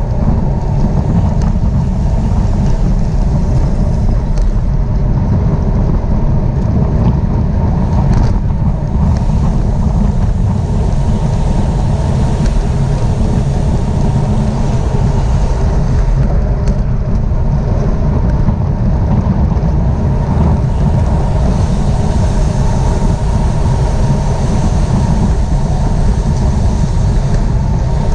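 Steady, loud rush of wind buffeting the microphone at riding speed, with tyre and road noise underneath, as from a camera carried on a bicycle in the race.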